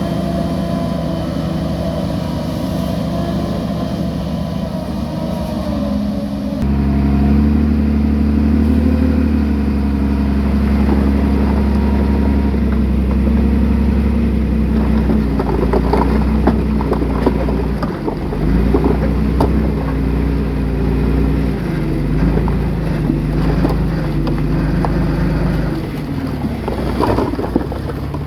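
Bulldozer's diesel engine running steadily under load; its sound changes abruptly about six and a half seconds in. In the second half, repeated clanks and knocks from the tracks and the material being pushed sound over the engine.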